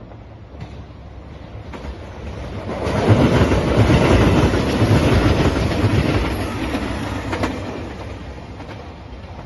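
JR Shikoku 2700 series diesel limited express train passing close by, its wheels clattering on the rails. It grows louder to a peak about three to six seconds in, then fades as it moves away.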